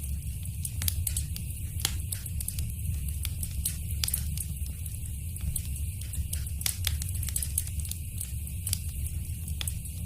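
Wood fire crackling in a fireplace: a low steady rumble of the flames with frequent sharp, irregular pops and snaps.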